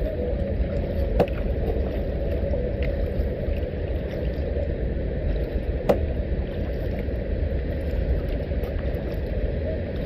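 Steady low rushing of water and air as a kayak moves along, with two sharp knocks, one about a second in and one near six seconds.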